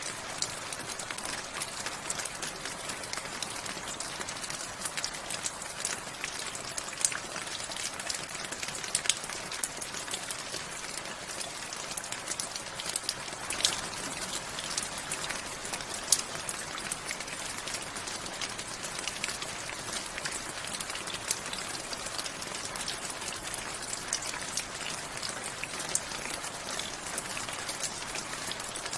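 Steady rainfall, a constant hiss with many distinct drops ticking and pattering on a hard surface close by.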